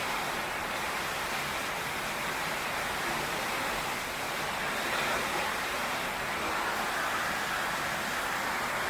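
Heavy rain pouring steadily on a tin roof, an even hiss with no thunder.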